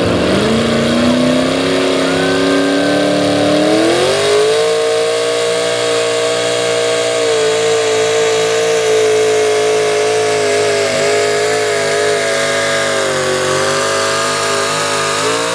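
Super stock two-wheel-drive pulling truck's engine under full throttle pulling the sled: revs climb over the first four seconds, then hold high and steady with slight wavering.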